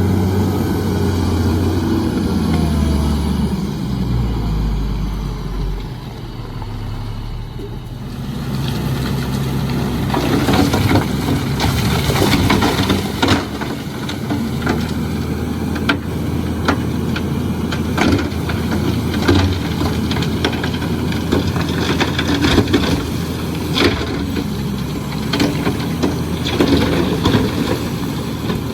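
Heavy diesel earthmoving machinery running, its engine pitch falling over the first few seconds. From about eight seconds in, repeated sharp knocks and clatter, like rock and steel, sound over the engine.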